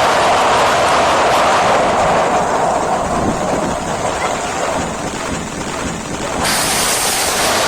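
Heavy rain with a steady rushing hiss, buffeting the microphone; the hiss turns suddenly brighter about six and a half seconds in.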